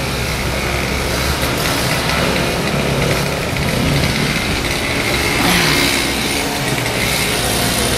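Small-engine snowblower running steadily.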